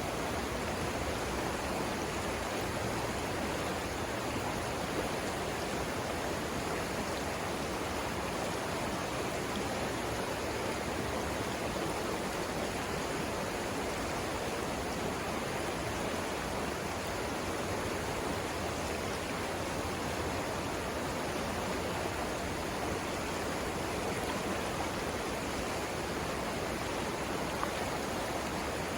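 Savannah River water rushing steadily, an even, unbroken sound of flowing water with no pauses or changes.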